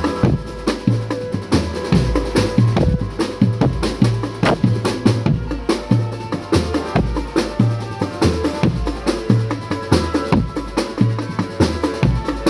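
Marching drum band playing: snare and pitched bass drums beat out a steady, dense rhythm, with a melody carried over the drums.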